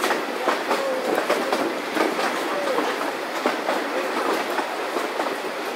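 Narrow-gauge heritage train running along the track, heard from an open carriage window: a steady rushing noise with irregular clicks of the wheels over the rail joints.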